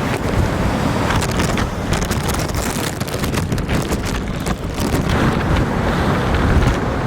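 Heavy storm surf from an offshore hurricane crashing and washing ashore at high tide, under strong wind buffeting the microphone.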